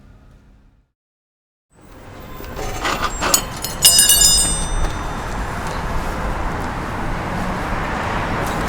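Outdoor street ambience of steady traffic noise fading up after a second of silence, with a few brief high ringing, clinking sounds about three to four seconds in.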